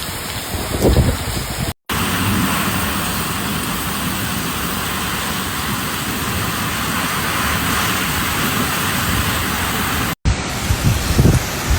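Steady hiss of heavy rain pouring down, broken twice by brief dropouts. In the first and last couple of seconds, low gusts of wind buffet the microphone.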